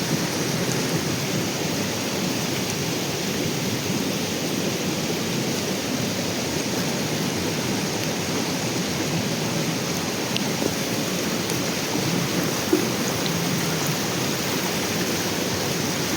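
Steady, even rushing noise that does not change, with one brief tick near the end.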